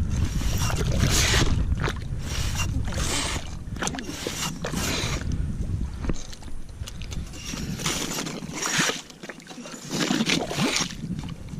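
Kayak paddle strokes dipping and splashing in shallow water, about one a second, over a low rumble that drops away about eight seconds in.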